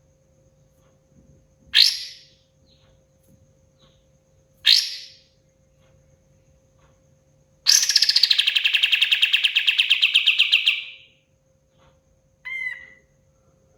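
Kapas tembak bulbul calling: two short, sharp, loud calls a few seconds apart, then a fast rattling trill of about three seconds, then a fainter short call near the end. A faint steady hum sits under it.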